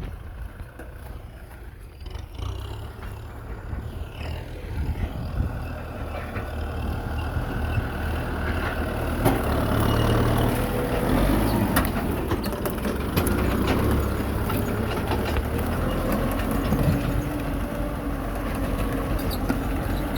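Kubota M6040SU tractor's diesel engine running under work, growing louder over the first ten seconds or so and then holding steady.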